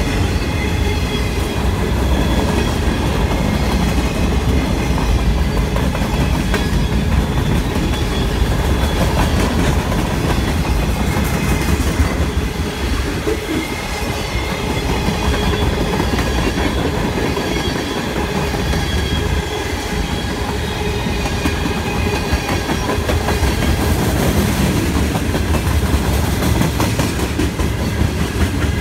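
Freight cars of a mixed freight train rolling past at close range: a steady rumble of steel wheels running on the rails.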